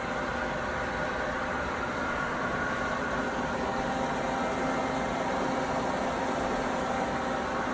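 Hurco CNC vertical machining center running under power: a steady mechanical hum and hiss with several constant tones held throughout.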